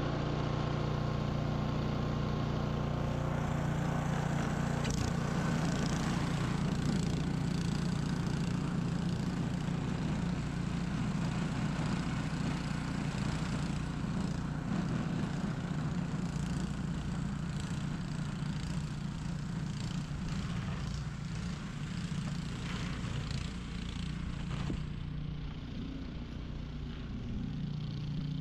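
Ariens 21-inch professional snow blower's small engine running steadily under load while clearing snow, with scattered light clicks over it.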